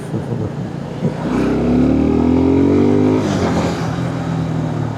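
Motorcycle engine accelerating under way, its note rising steadily for about two seconds and then dropping back to a steadier drone.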